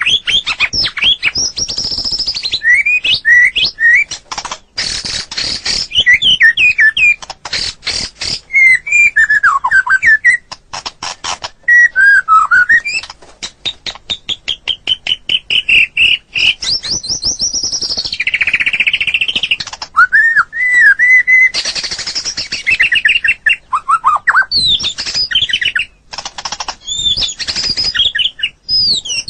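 White-rumped shama (murai batu) singing a loud, varied song: whistled phrases with rising and falling notes, mixed with rapid runs of dry clicking and chattering notes.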